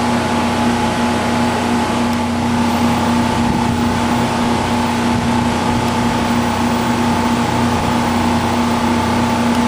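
Steady machine hum at a constant pitch, unchanging throughout.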